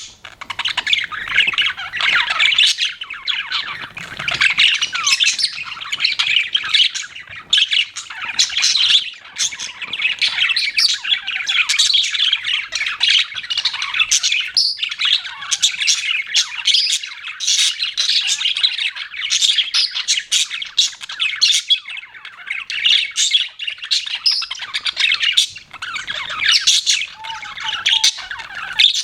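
Several budgerigars chirping and chattering continuously, a dense mix of fast warbles and squawky calls.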